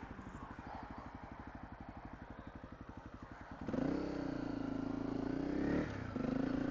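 A small motorcycle engine putters at low revs, then about halfway through it gets louder as the bike pulls away. Its note dips briefly and picks up again near the end.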